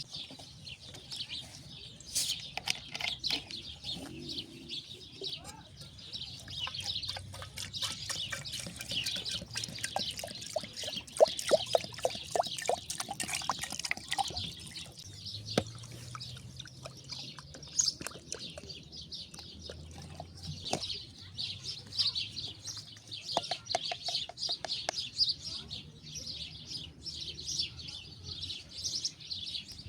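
Many small birds chirping and twittering continuously, with scattered light clicks and knocks.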